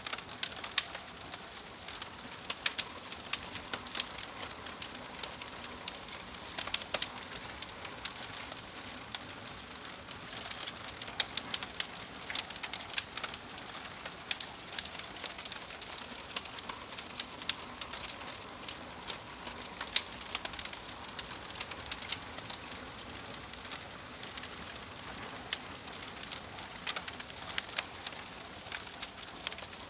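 Crackling fire: a steady soft hiss with irregular sharp pops and snaps.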